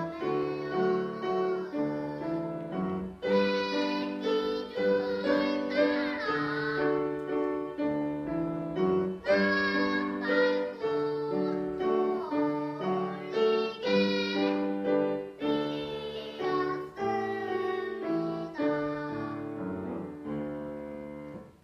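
A young child singing a Korean children's song to piano accompaniment; the music fades out just before the end.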